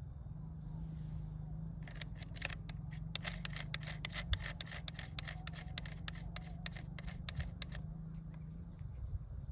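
A rapid run of small, sharp mechanical clicks lasting about six seconds, starting about two seconds in, over a steady low rumble of wind on the microphone.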